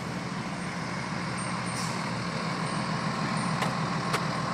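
Fire engine's diesel engine running steadily as the truck moves off, with road noise and two brief sharp clicks near the end.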